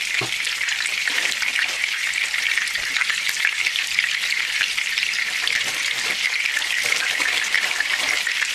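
Breaded pork cutlet (tonkatsu) shallow-frying in oil in a pan: a steady, dense sizzle full of fine crackles.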